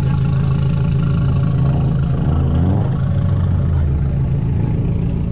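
Car engine running close by, a steady low drone with a brief rise in pitch about halfway through.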